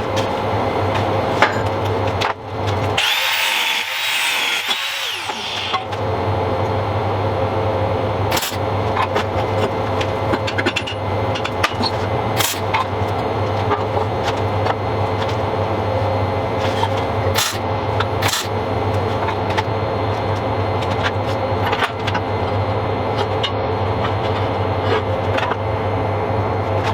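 An electric power tool running steadily on steel, with a louder, high-pitched stretch about three seconds in and a few sharp clicks later.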